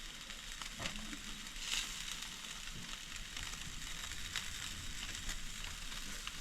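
Chicken legs sizzling on a barbecue grill over a fire: a steady hiss with scattered pops and crackles, briefly louder about two seconds in.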